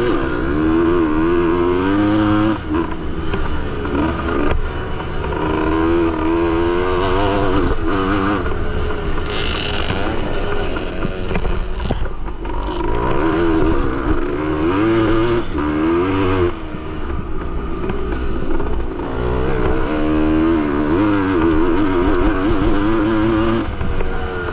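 1973 Yamaha MX250 two-stroke single-cylinder motocross engine being ridden hard, its pitch climbing and dropping again and again as the throttle is worked, over the clatter of the bike on the track.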